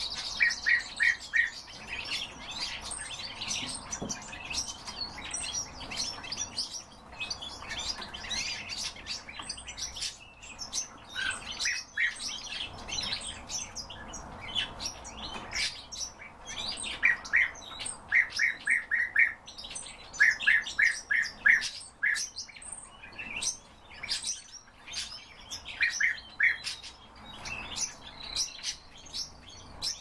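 Captive birds chirping and calling throughout, with quick runs of four or five short notes that recur every few seconds among many higher chirps.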